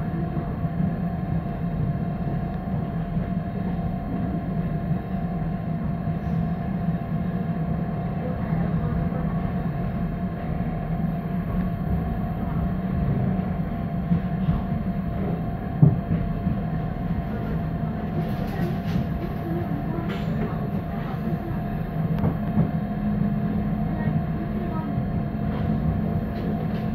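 Ride inside a moving electric commuter train carriage: a steady rumble of wheels on track over a constant motor hum, with a single sharp knock about sixteen seconds in.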